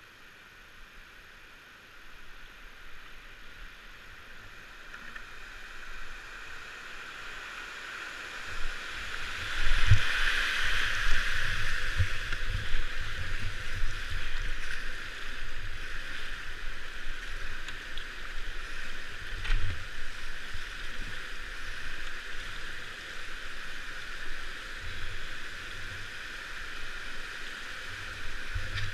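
Rushing river water around a kayak, growing louder about a third of the way through, with low rumbling buffets on the microphone.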